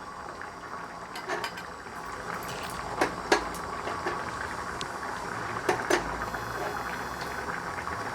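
Mustard seeds and urad dal sizzling in a spoonful of hot oil for tempering, with a few sharp pops and clicks coming in pairs.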